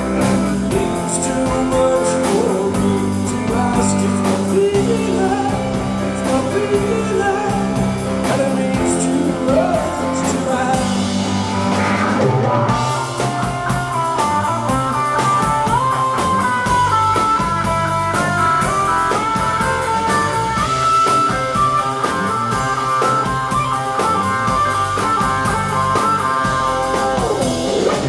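Live rock band playing a song: electric guitar, drum kit and a sung lead vocal, loud and unbroken.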